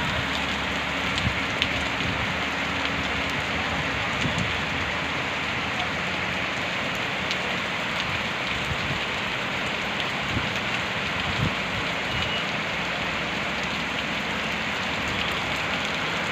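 Heavy, steady rain falling and splashing on surfaces, with scattered individual drop ticks.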